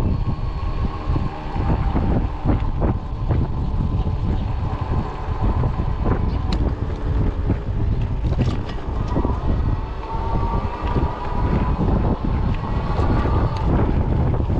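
Wind buffeting the microphone on a moving fat-tire e-bike: a dense low rumble with scattered knocks, and a faint thin whine that rises in pitch about two-thirds of the way through.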